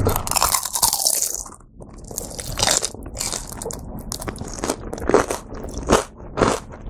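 A crisp crunching bite into a deep-fried shrimp dumpling, close-miked, followed by a run of crunching chews through the fried batter shell.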